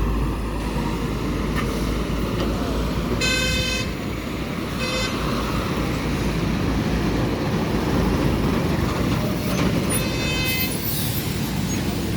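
Steady low engine and road rumble of highway traffic, with a vehicle horn honking three times: a short honk a little after three seconds in, a shorter one about five seconds in, and a longer one near ten seconds.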